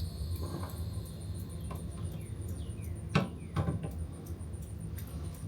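Small clicks and taps of a drain fitting and tools being handled by feel against the RV generator's underside, with a louder knock about three seconds in and another just after, over a low steady hum.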